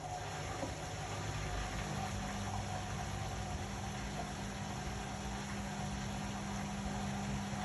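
Indesit Innex BWE 91496X washing machine running mid-cycle: a steady rushing machine noise, with a low steady hum that comes in about two seconds in and holds.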